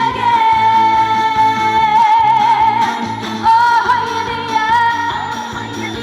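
Trot song performed live: a woman sings one long high note for about three seconds, wavering into vibrato near its end, then starts a new phrase over a band backing with a steady beat.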